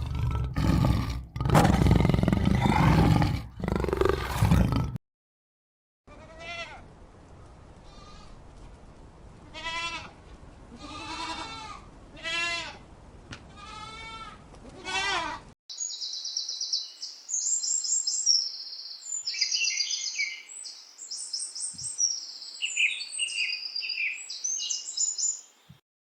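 A run of animal calls. It opens with about five seconds of loud, rough roaring, then a short silence. Next come about eight bleats, each rising and falling in pitch, about a second apart. The last ten seconds are quick, high-pitched bird chirps in clusters.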